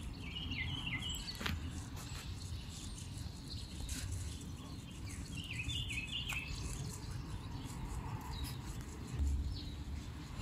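A songbird singing two short phrases of quick chirping notes that step downward, about five seconds apart. A low rumble runs underneath, louder near the end.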